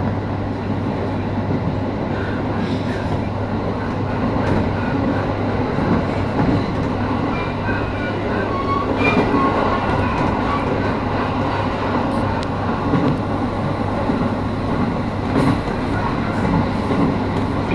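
Electric train running along the track, heard from inside the front car: a steady rumble and hum with occasional rail clicks, and faint short wheel squeals about halfway through.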